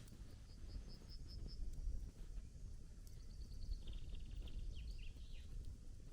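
Campfire burning with a low rumble and faint crackles. Over it a small bird chirps: a run of short, evenly spaced high notes in the first second and a half, then a quicker trill with a few falling notes about three to five seconds in.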